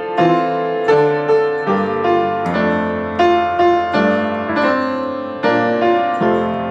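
Piano playing a slow sequence of struck chords, each note fading after it is played.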